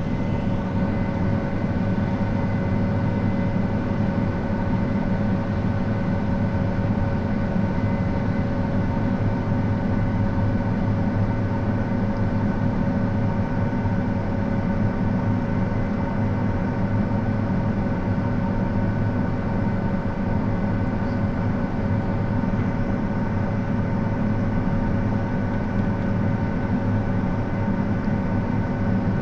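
Farm machinery engine running steadily under load: a constant low drone with several steady whining tones above it.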